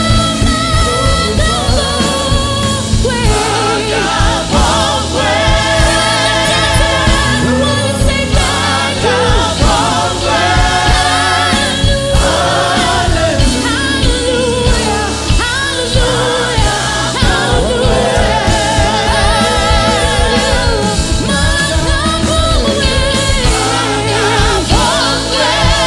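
Gospel choir singing with vibrato over a steady band accompaniment with a beat.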